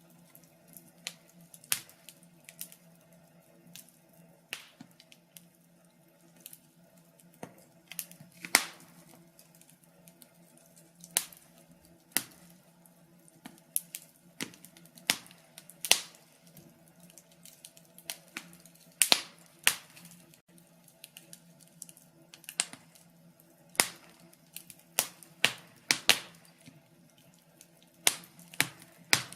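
Wood fire crackling in a fireplace: irregular sharp pops and snaps, sometimes several a second, over a faint steady low hum.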